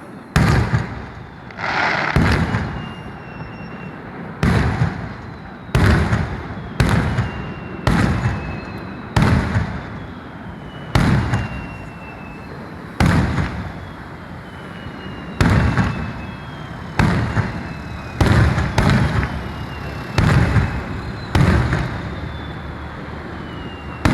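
Aerial firework shells bursting in a steady barrage, about one bang a second, some twenty in all, each trailing off in a rumbling echo, with faint high whistles falling in pitch between them.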